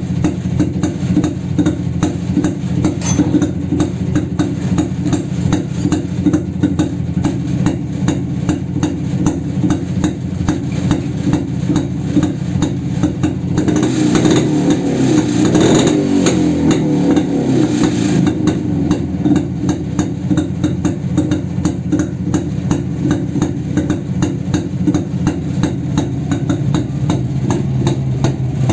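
A 1969 Jawa 250 cc two-stroke single-cylinder motorcycle engine running at idle with a rapid, even beat. It is revved up and back down once about halfway through, for a few seconds.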